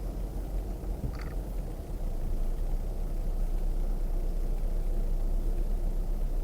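An off-road vehicle's engine running with a steady low rumble that grows louder about two seconds in. A brief high chirp sounds once about a second in.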